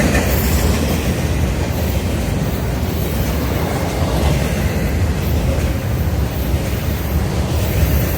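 Freight train cars rolling past close by: a steady, loud rumble of steel wheels on rail with some clickety-clack of wheels over rail joints.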